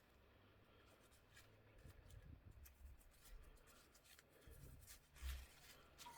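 Near silence with faint handling noises: light clicks and rubbing as small clock-movement parts are handled. A soft low thump comes about five seconds in.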